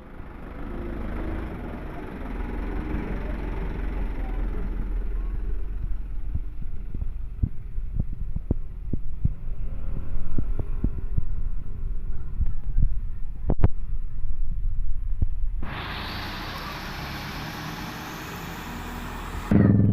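Truck engine rumbling as it passes on the road, with a run of sharp knocks through the middle. A steady hiss takes over for the last four seconds.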